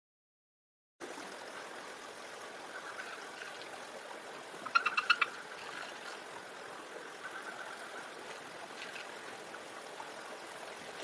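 A steady rushing noise like flowing water, starting about a second in. About five seconds in, a bird gives a quick run of about five sharp, high chirps, the loudest sound here, with a fainter call near nine seconds.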